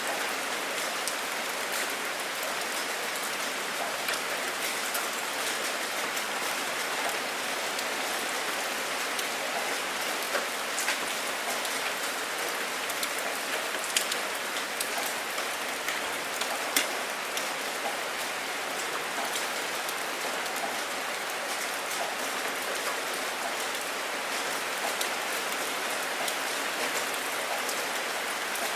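Steady rain falling, a constant patter with scattered louder individual drops striking a surface.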